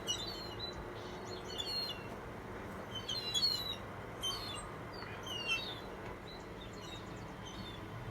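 Several small birds chirping in short, high, quick bursts every second or so, fainter toward the end.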